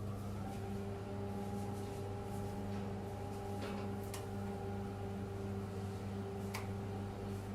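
Microwave oven running: a steady electrical hum, with a few faint clicks.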